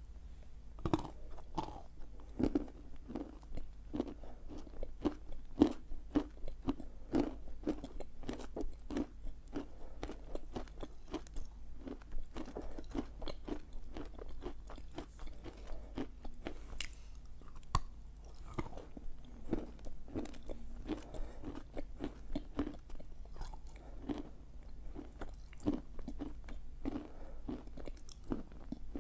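Close-up crunching and chewing of a bar of chalk: a bite near the start, then a dense run of dry crunches and grinding, several a second, as the bar is chewed.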